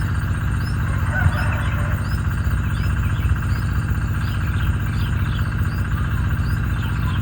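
A steady low hum fills the background. Faint chirping bird calls come through over it, with a short high chirp repeating about every two-thirds of a second.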